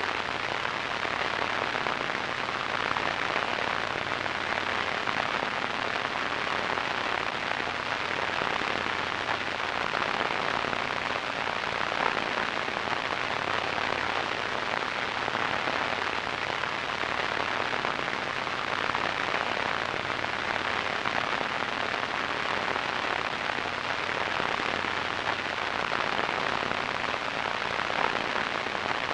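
Radio static: a steady, even hiss with a fine crackle, unchanging throughout.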